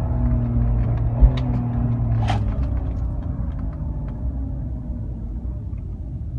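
BMW E46 325xi's 2.5-litre straight-six running through its exhaust, a steady low rumble that slowly fades and sinks a little in pitch over the last few seconds. A low thump about a second in and a sharp click about two seconds in.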